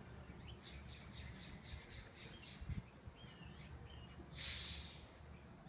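Faint small-bird chirps, a quick run of about five a second, then a few scattered calls. About four and a half seconds in comes a brief, louder harsh hissy sound.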